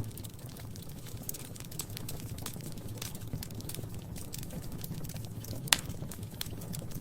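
Wood fire crackling in a fireplace: scattered small crackles and pops over a low steady rumble, with one louder pop near the end.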